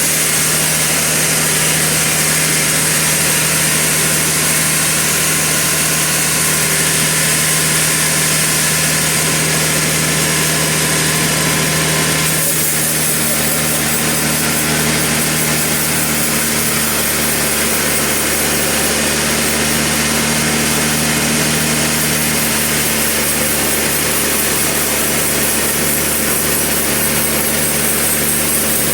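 Sawmill machinery running steadily, its engine-driven saw humming at an even level, with a change in its tone about twelve seconds in.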